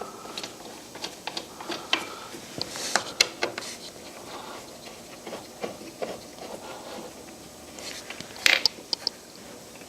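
Irregular light clicks and knocks of metal hardware and a wooden jig being handled as a circle-cutting jig is fitted and bolted to a bandsaw, with a quick cluster about three seconds in and the loudest knocks near the end.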